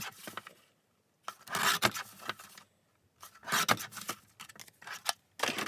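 Sheet of card stock rustling and scraping as it is handled, in three short strokes with brief pauses between.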